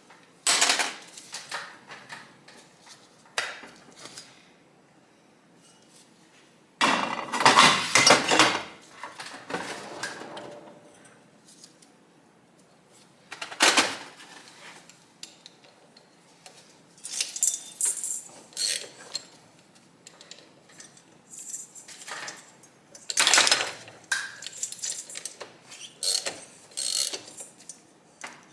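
Metal hand tools and motorcycle engine parts clinking and clattering against each other in irregular bursts, with a loud cluster of clanks about a quarter of the way in.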